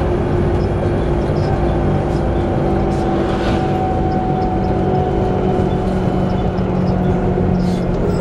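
Volvo B7TL double-decker bus under way: a loud, steady rumble of engine and Allison-geared drivetrain with held whining tones, a higher whistle across the middle fading out and a lower whine growing stronger near the end. The whistling is of the kind the uploader puts down to a bad differential.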